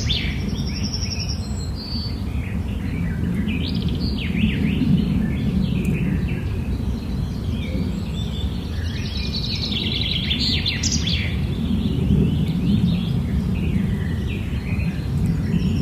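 Many short, high bird chirps in quick succession over a steady low background noise.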